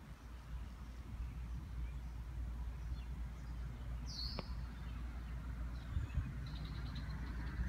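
Quiet outdoor ambience: a low steady rumble with a single short bird chirp about four seconds in and a few fainter chirps near the end.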